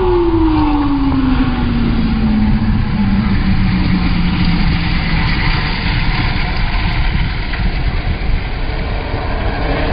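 A vehicle engine running, its pitch falling steadily over the first five seconds or so as it winds down, over a constant loud rumble of road noise.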